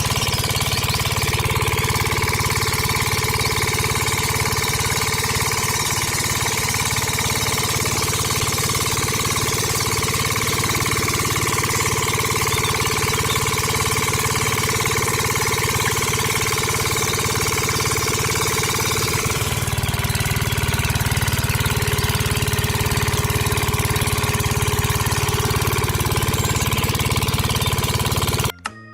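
A small engine or motor running steadily with a fast, even chugging rhythm. The pitch shifts slightly about two-thirds of the way through, and the sound cuts off suddenly near the end.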